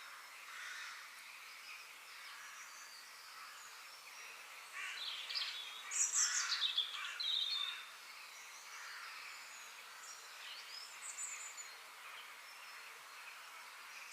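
Birds chirping and singing, with one louder run of rapid chirps and trills from about five to eight seconds in.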